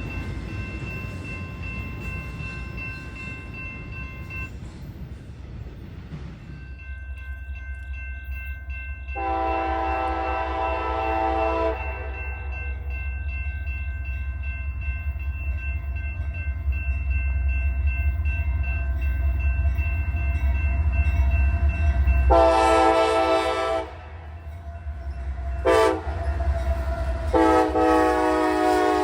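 Diesel freight locomotive approaching with its engines rumbling deep and loud, sounding its multi-chime air horn in the grade-crossing pattern: long, long, short, long.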